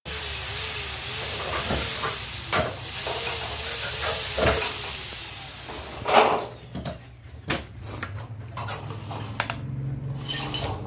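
Makita miter saw running with a steady hiss for about the first six seconds, with knocks; then the hiss stops and a quieter stretch of clicks and knocks follows.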